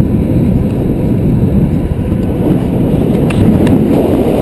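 Wind rushing and buffeting over the microphone of a camera riding on a mountain bike rolling along at speed, a steady loud rumble, with two faint ticks a little over three seconds in.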